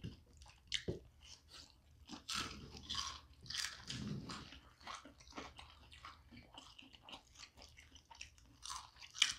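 Chewing and biting into fried chicken nuggets, with irregular crunches and wet mouth sounds, and one sharper crunch near the end.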